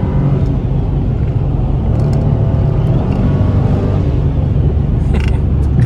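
Car engine and road noise heard from inside a moving car: a steady low drone.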